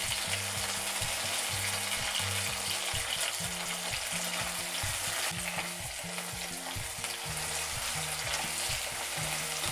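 Onion, tomato, green chillies, ginger and garlic frying in hot oil in a kadhai, a steady dense sizzle.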